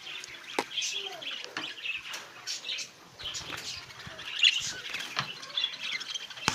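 Budgerigars chirping and chattering continuously, with many short clicks and flutters among the calls.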